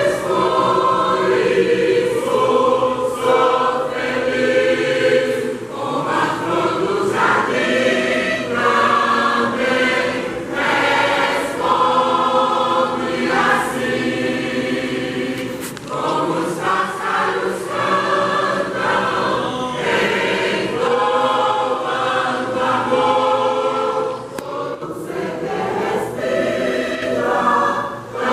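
Mixed church choir singing a hymn in several voice parts, phrase after phrase, with short breaks between phrases.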